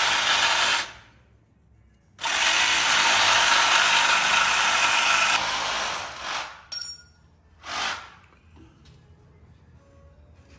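Handheld power tool cutting metal in bursts, trimming the bell housing for clearance: a short burst at the start, a longer run of about four seconds, then two brief touches.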